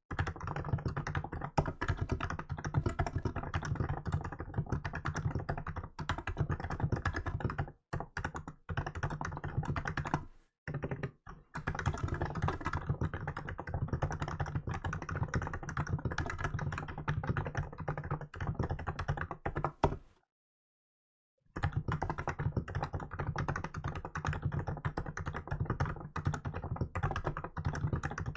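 Hansung GK868B electrostatic capacitive (Topre-style) keyboard typed on steadily and quickly, a dense run of keystrokes with a few short pauses. Near two-thirds of the way through, the sound drops out entirely for a little over a second.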